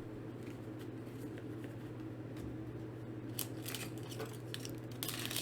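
Trading cards and a foil booster pack being handled: scattered soft clicks and crinkles, busier in the last couple of seconds, over a steady low electrical hum.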